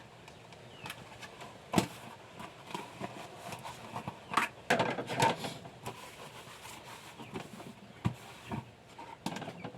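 Scattered clinks and knocks of dishes being handled as they are dried and put away, a few sharper knocks among softer handling sounds.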